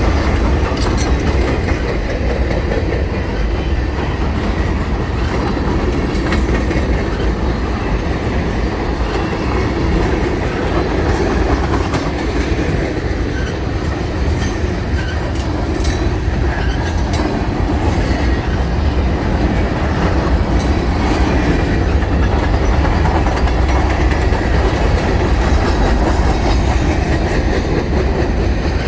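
A train rolling past, with steady wheel-and-rail rumble and scattered clicks as its car wheels cross rail joints.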